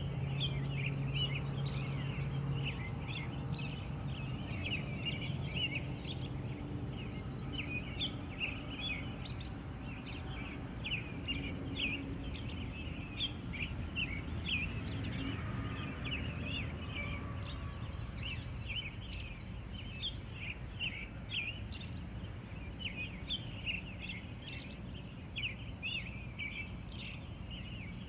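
Dawn chorus of wild birds: many short, rapid chirps overlapping continuously, over a steady high-pitched tone and a low rumble.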